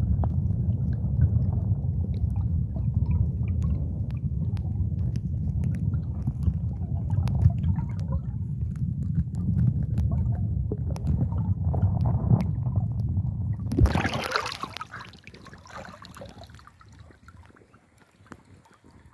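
River water sloshing and gurgling under a heavy low rumble with scattered ticks. About fourteen seconds in, the rumble stops, leaving a quieter, higher hiss of water.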